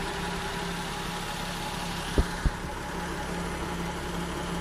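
Toyota 1JZ-GTE turbocharged straight-six idling steadily. Two brief low thumps come about two seconds in.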